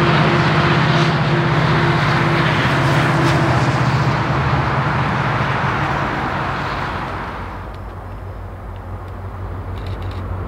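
A diesel train passing with a steady engine drone and rumble, fading away about seven seconds in; a low rumble starts to build again near the end.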